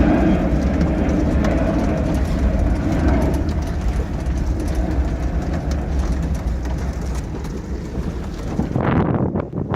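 Airplane passing overhead: a steady low rumble that slowly fades away. Gusts of wind on the microphone come in near the end.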